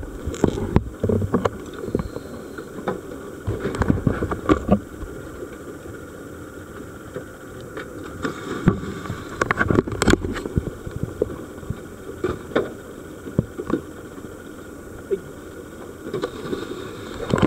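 Steady low rumble of a dive boat at sea with wind on the microphone, broken by scattered knocks and clatters, the loudest about ten seconds in.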